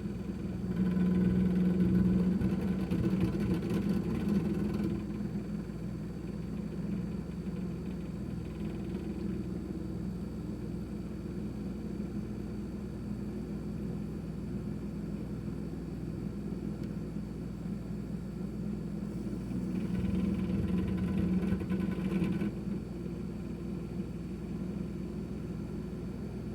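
Kenmore 51103 refrigerator running with a steady hum, and an abnormal rattle that comes in twice, louder, for a few seconds each: about a second in and again about twenty seconds in.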